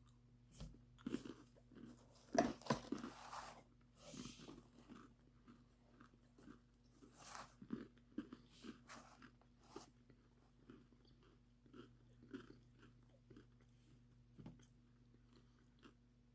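A person biting and chewing crunchy cinnamon graham cracker snacks: faint, irregular crunches, loudest a couple of seconds in.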